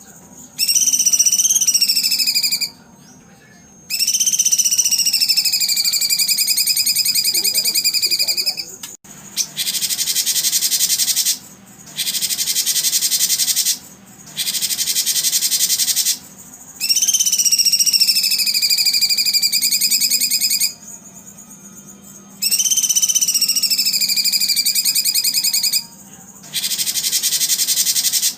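Recorded songbird song for conditioning competition birds: loud, high-pitched buzzing trills in phrases of about two seconds with short gaps, several of them carrying a whistled note that drops and then holds steady.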